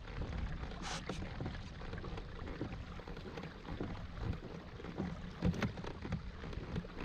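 Kayak being paddled: water splashing and sloshing, with a brief splash about a second in and scattered light knocks.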